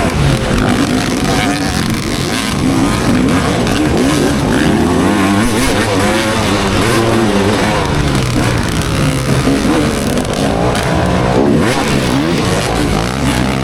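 Motocross dirt bike engine revving hard and easing off again and again, its pitch climbing and falling.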